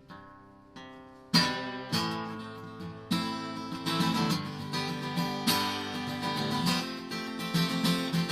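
Acoustic guitar in an instrumental break of a song: a fading chord, then strummed chords that come in sharply about a second in and carry on in a steady rhythm.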